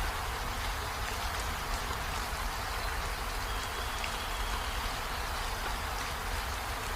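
Steady rainfall, an even hiss with scattered drop ticks and a low rumble underneath.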